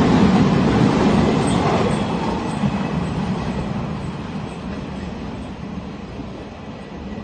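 Train rolling past on the rails, its wheel and rail noise loud at first, then fading steadily as it moves away.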